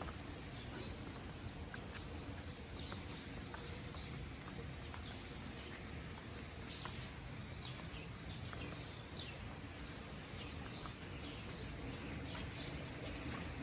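Birds chirping in many short calls, some falling in pitch, over a steady low outdoor rumble.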